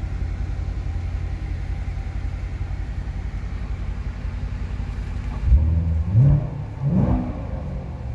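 2016 Chevrolet Corvette Stingray's 6.2-litre LT1 V8 idling steadily, then revved in three quick blips starting about five and a half seconds in before settling back to idle, heard from inside the cabin.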